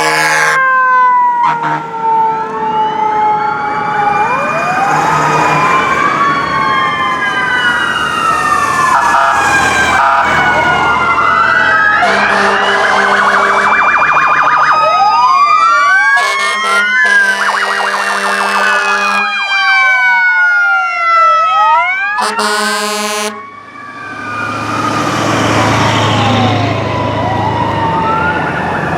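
Several fire truck sirens wailing at once, their rising and falling sweeps overlapping, with long horn blasts sounding a few times over them.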